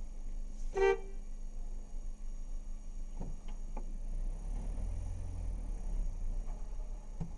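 A single short car-horn beep about a second in, over the steady low rumble of a car in traffic.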